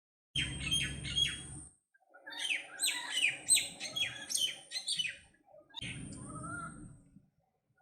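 Myna calling: three bouts of rapid chattering and whistled notes, separated by short breaks of silence.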